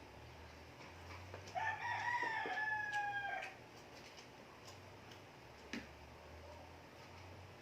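A rooster crowing once, a single drawn-out call of about two seconds that rises at the start and then holds, falling slightly before it stops.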